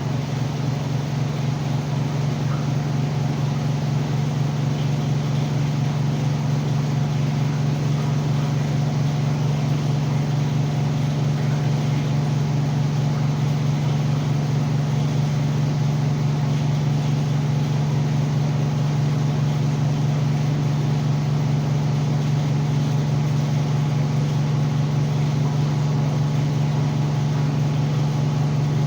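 Samsung WA45T3200AW impeller top-load washer spinning: a steady, loud low motor hum with a fine, rapid pulse, growing a little louder in the first few seconds and then holding steady.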